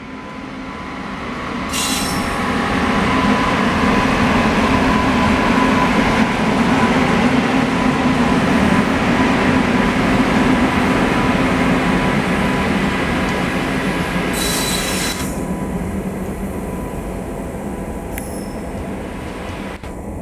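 An express passenger train hauled by an electric locomotive runs along the platform. The noise of its wheels on the rails swells as the locomotive comes near, then slowly fades as the coaches pass. Two brief high squeals cut through, about two seconds in and again near fifteen seconds.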